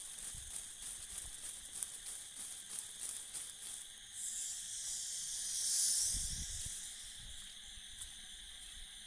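Steady high-pitched chirring of insects, with a hiss that swells and fades from about four to seven seconds in.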